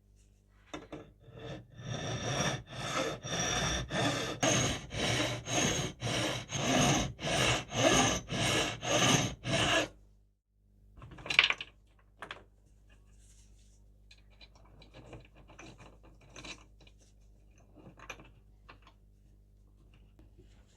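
Rhythmic back-and-forth abrasive strokes by hand on the rusty steel scissors, about one and a half strokes a second, stopping about ten seconds in. A sharp knock follows, then lighter, irregular scraping.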